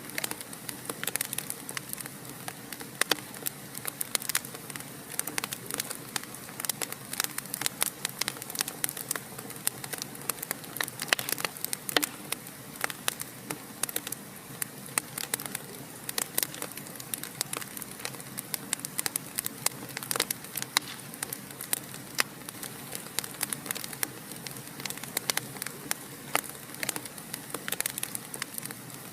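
Wood fire crackling in a fireplace: a steady hiss of flames with frequent sharp, irregular pops and snaps.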